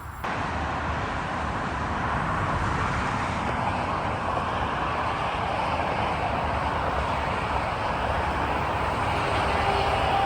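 Südostbahn RABe 526 electric multiple unit on the mainline, a steady rolling rumble that begins abruptly and slowly builds as the train approaches.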